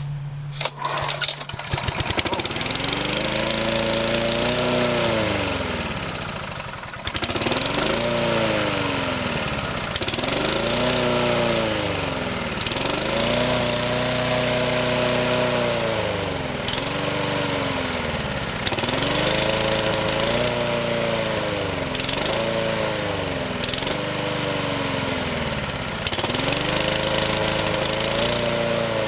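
Honda HR195 lawn mower engine pull-started cold on full choke, catching within the first couple of seconds. It then runs with its speed surging up and down every two to three seconds and sags once as if about to stall. The hunting comes while the owner is working the choke to get a freshly cleaned carburetor to settle.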